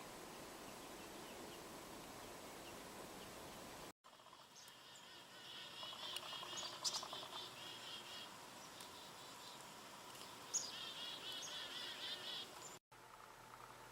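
A small songbird trilling twice, each a rapid run of high pulses a few seconds apart, with a couple of sharp ticks among them. Before that, a faint steady outdoor background.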